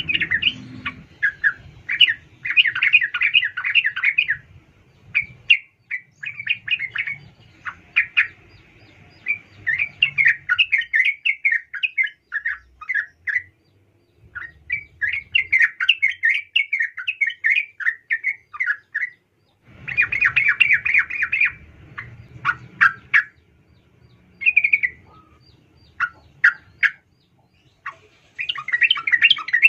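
Female yellow-vented bulbul (trucukan) giving bursts of rapid, chattering calls, one to two seconds long, with short pauses between them. These are calls to a male, used as a lure to provoke males into calling.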